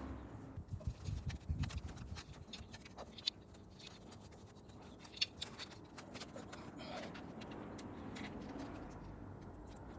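Scattered light clicks, taps and scrapes, thickest in the first couple of seconds, over a faint low rumble.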